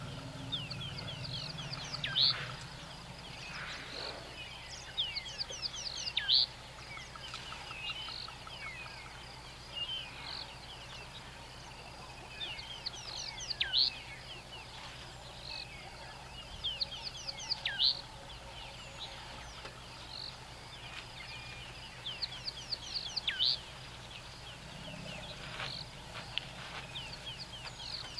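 A wild bird calling a repeated phrase of quick high chirps that ends in one loud sharp note, every four seconds or so, with a faint low hum underneath.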